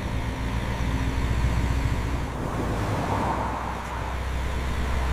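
Heavy machinery engine running steadily, with a low rumble under an even mechanical hiss.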